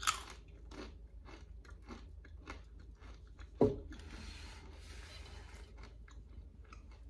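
Close-miked crunching and chewing of a crunchy snack: a crisp bite right at the start, many small crunches, and a louder crunch about three and a half seconds in.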